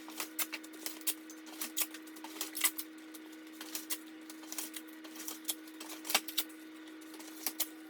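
Collard green leaves being handled and pulled apart by hand, giving irregular crisp clicks and crackles, over a faint steady hum.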